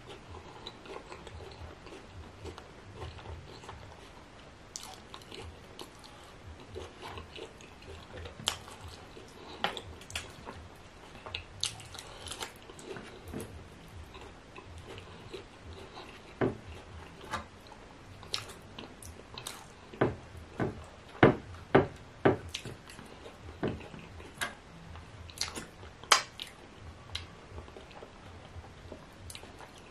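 Chewing and wet mouth sounds of a person eating meat in slimy ogbono soup by hand, with many sharp smacks and clicks. The smacks come thickest and loudest in a run about two-thirds of the way through.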